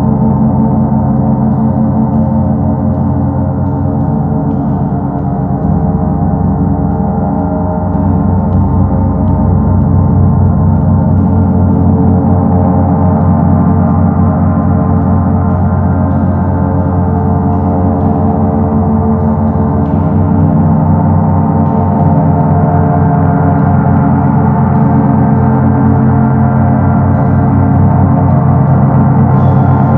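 Paiste Sedna planet gong sounding a deep, rumbling wash of many held tones with a fast throbbing beat, swelling slightly a few seconds in.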